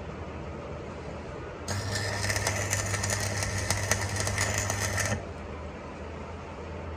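Metal lathe running with a steady hum; from about two seconds in to about five seconds in, a cutting tool bites into the metal, adding a louder, rough scraping noise with a high ring, then it drops back to the motor hum.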